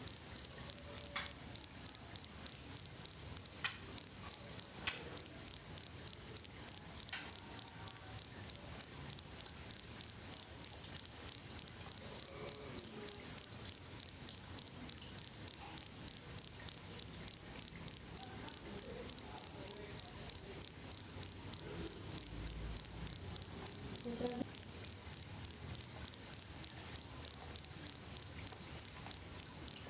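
Cricket (jangkrik) chirping steadily, one high-pitched trill pulsing evenly about three to four times a second.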